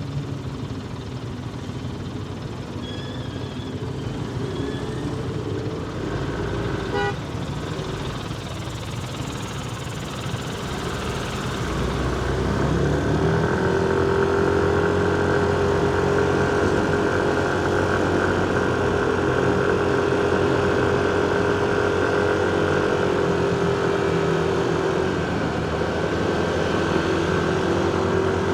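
Motorcycle engine in city traffic: running low and quiet at first, then pulling away about twelve seconds in and holding a steady cruising tone, with other vehicles around it.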